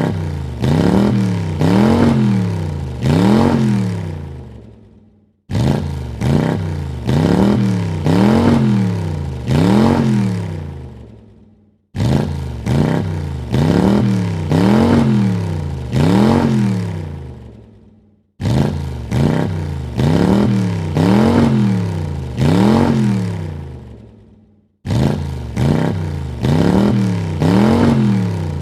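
Car engine revved three times in quick succession, each rev rising and falling in pitch, then dying away. The same short clip repeats about every six and a half seconds, each time starting suddenly.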